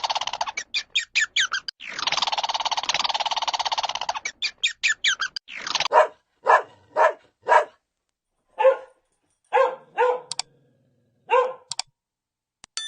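A bird's harsh, rattling call followed by a quick run of short chirps, heard twice, then a dog barking: single barks about half a second apart, spacing out toward the end.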